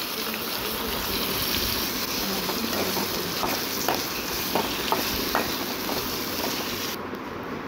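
Chopped tomatoes sizzling in hot oil in an aluminium pan as they sauté, stirred with a steel ladle that gives a few light taps and scrapes against the pan. The sizzle thins near the end.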